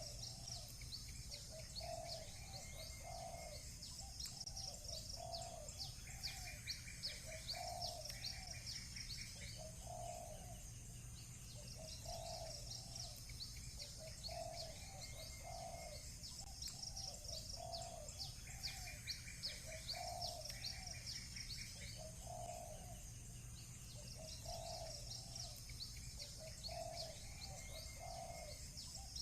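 Village birds calling: a low two- or three-note call repeats every couple of seconds under rapid, continuous high chirping from small birds. Short buzzy trills break in twice.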